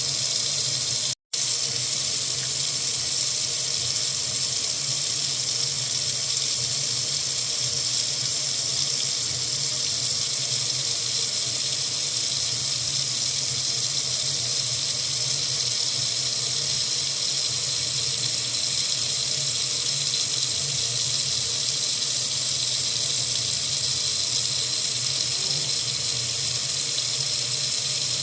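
Water faucet running into a sink in a steady, even hiss, with a split-second dropout about a second in.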